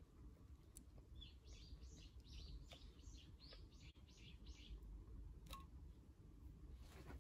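Faint bird song: a run of about ten quick, high chirps, roughly three a second, lasting about three and a half seconds, over quiet room tone, with a couple of soft clicks.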